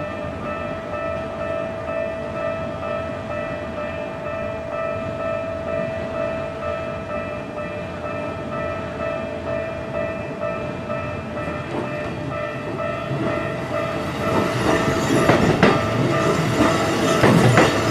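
Level-crossing warning bell ringing steadily as a Keikyu electric train approaches. From about fourteen seconds in, the train grows louder and passes, its wheels clacking sharply over rail joints.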